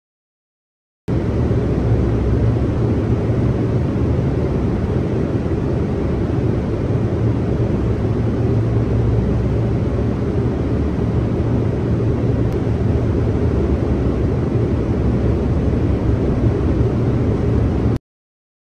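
Strong wind blowing across the microphone: a loud, steady rumbling rush, heaviest in the low end, that starts abruptly about a second in and cuts off just before the end.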